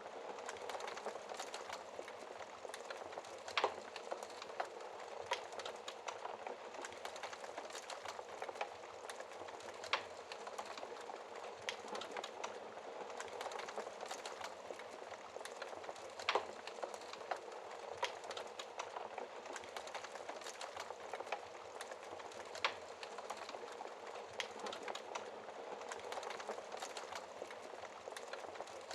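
Logs burning in a fireplace, crackling: a steady hiss with frequent small pops and four louder snaps spread through.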